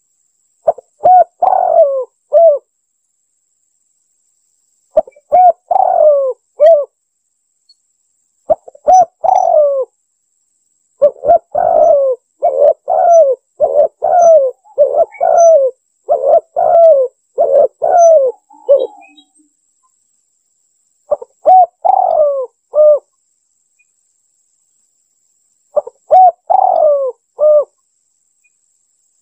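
Spotted dove cooing in repeated short phrases of a few notes each, with silent gaps between them. A longer, faster run of coos comes in the middle.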